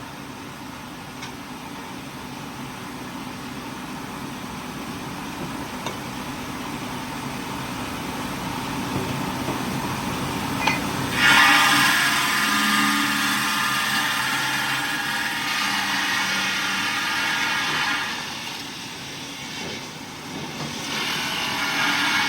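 Heavy machinery running, slowly growing louder. About eleven seconds in a much louder, high whining noise starts suddenly; it drops back a few seconds before the end, then rises again.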